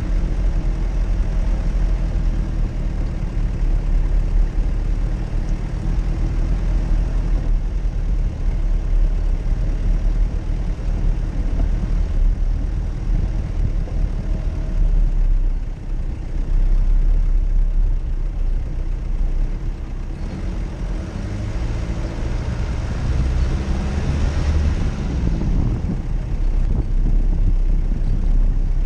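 Jeep Cherokee engine running as it drives off-road, with heavy low rumble. About three-quarters of the way through, it revs up and grows louder before settling again.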